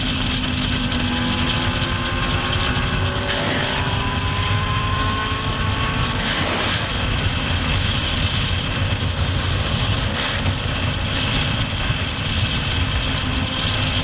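Motorcycle engine running at speed under heavy wind rush, its note climbing slowly a few seconds in as the bike accelerates.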